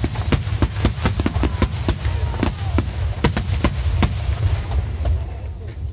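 Star mine barrage of aerial firework shells bursting in quick succession, many sharp bangs a second over a continuous deep rumble of explosions. The barrage thins out near the end.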